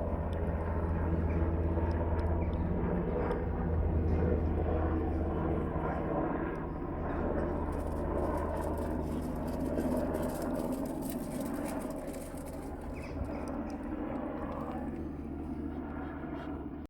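NH90 helicopter running: a steady low rotor throb under a constant rushing noise.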